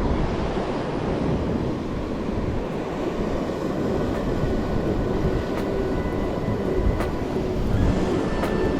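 Wind buffeting the microphone over ocean surf: a steady rumbling noise. Faint music tones come in about halfway through.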